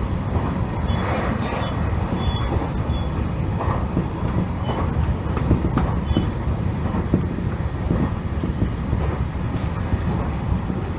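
Electric train running along the track, heard from on board: a steady rumble of wheels on rails with scattered light clicks.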